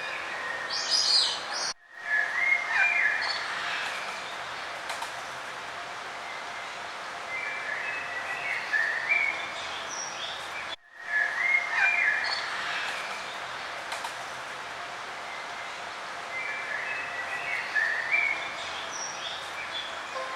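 Several small birds chirping and singing over a steady outdoor background hiss. The same stretch repeats about every nine seconds, each repeat starting after a brief dropout in the sound, as in a looped recording.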